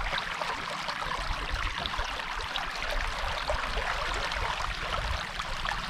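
Strong river current rushing and gurgling past the hull of an anchored sailboat: a steady, noisy rush of fast-flowing water.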